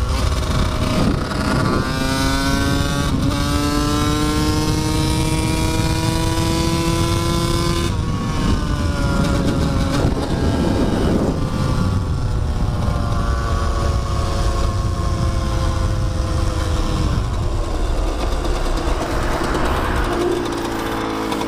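Dirt bike engine pulling under load while riding: its pitch climbs steadily for several seconds, changes abruptly about eight seconds in, then sags slowly. A heavy low rumble runs underneath throughout.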